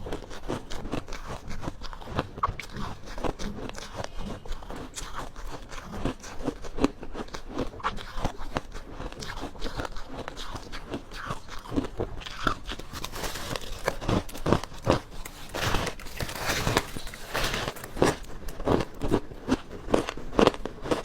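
Ice being bitten and chewed close to the microphone: a run of sharp, crackly crunches. They come thickest and loudest in a burst past the middle, then settle back into separate bites.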